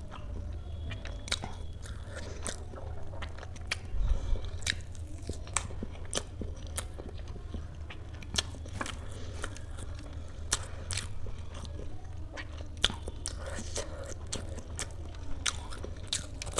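A person chewing and eating spicy dhokla, with irregular mouth clicks and smacks at an uneven pace.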